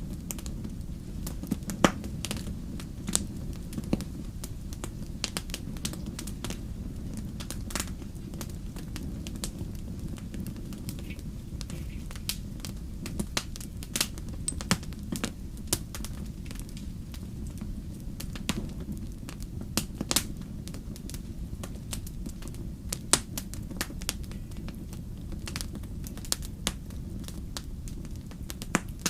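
Wood fire burning steadily with a low rumble, and irregular sharp pops and crackles of the burning logs.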